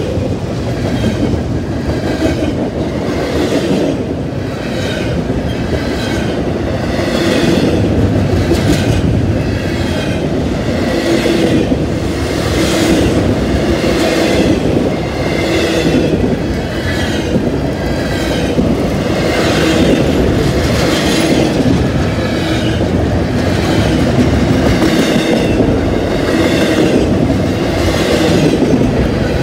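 Double-stack intermodal well cars rolling past close by, a continuous loud rumble of steel wheels on rail with a sharper clanking strike repeating about once a second.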